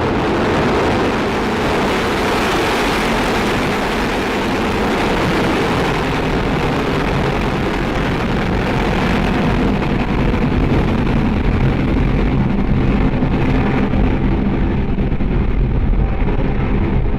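Soyuz rocket's engines at liftoff: a loud, continuous deep rumble with a harsh hiss over it as the rocket climbs away. The low rumble grows slightly stronger in the second half while the hiss thins toward the end.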